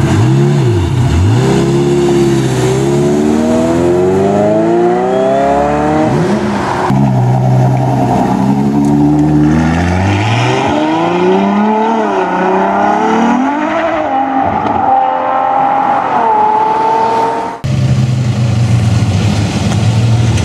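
Supercar engines accelerating hard, the pitch climbing and dropping back with each gear change. The sound changes abruptly twice, and near the end an engine holds a steady low note.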